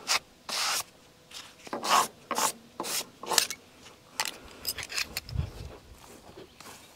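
Short, irregular scraping and rubbing strokes on sawn walnut wood, about a dozen of them, uneven in length and loudness.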